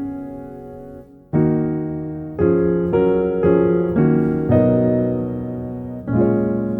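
Background music: solo piano playing slow chords, each struck and left to fade, with a brief pause about a second in.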